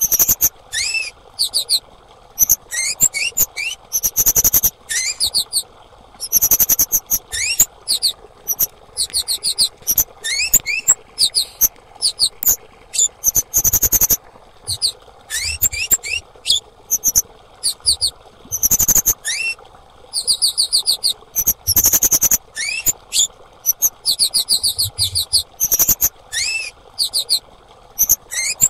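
Female kemade calling: repeated bouts, about a second each, of rapid very high-pitched chirps, with an occasional slurred lower note among them. Bird-keepers play this call to coax captive kemade that have gone silent into singing.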